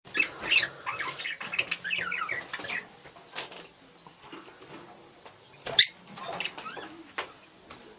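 Budgerigars chattering and warbling in quick, twittering calls, busiest over the first three seconds, then sparser, with one sharp loud call about six seconds in.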